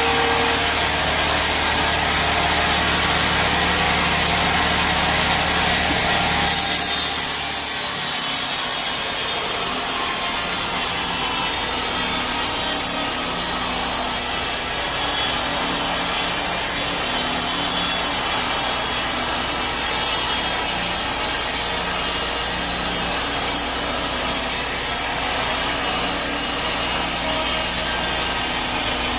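Sawmill bandsaw blade cutting through a teak log: a steady rasping saw noise over the machine's drone. The sound changes abruptly about six seconds in.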